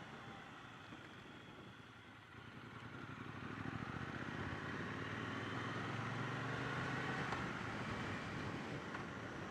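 Triumph Bonneville T120's parallel-twin engine running as the motorcycle is ridden, mixed with wind and road noise, getting louder from about two seconds in.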